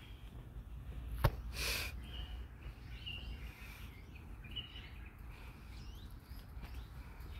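Small birds chirping in the trees, short high calls scattered through, over a steady low rumble. A sharp click comes about a second in, followed by a brief hissing rustle.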